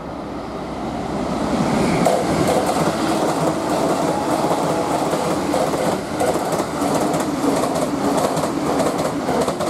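E259 series Narita Express electric train passing through a station without stopping: a rush of train noise that swells over the first two seconds, then holds steady with a rapid clatter of wheels over the rail joints.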